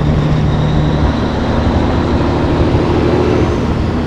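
Cabover semi truck's Caterpillar 3406B diesel engine running under way, heard from inside the cab. Its note changes about a second in and then climbs slowly.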